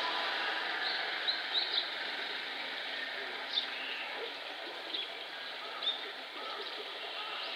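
Small birds chirping in short, scattered, high, rising calls over a steady background hiss of outdoor noise.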